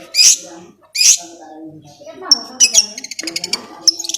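Long-tailed shrike (cendet) calling: two loud, harsh rasping calls, then from about two seconds in a fast run of sharp chattering notes, with quiet talk in the background.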